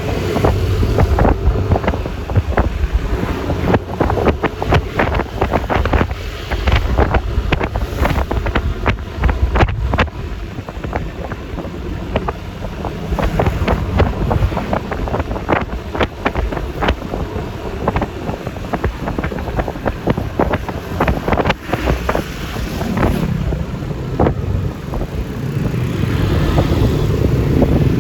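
Wind buffeting the microphone of a moving Yamaha Lexi LX 155 scooter, over its single-cylinder engine and road noise. The engine gets louder near the end.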